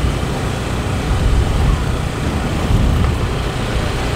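Wind buffeting the microphone while riding along a road in an open vehicle, a loud, irregular low rumble over the steady drone of the vehicle.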